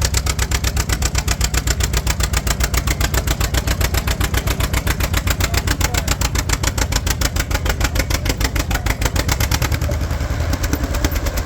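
Pulling tractor's engine idling with an even, pulsing rhythm. About ten seconds in, the sharper high part of the sound drops away and it becomes duller.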